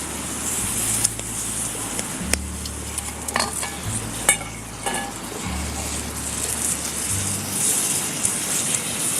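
Chicken sizzling in teriyaki sauce in a pan, with a few sharp clicks of a utensil against the pan partway through.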